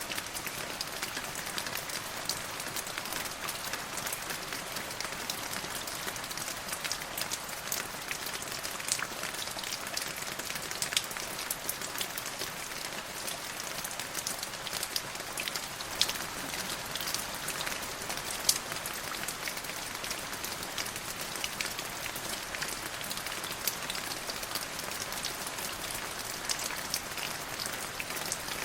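Steady rain falling on a surface, an even hiss with many distinct drops pattering sharply on top, a few louder drops standing out.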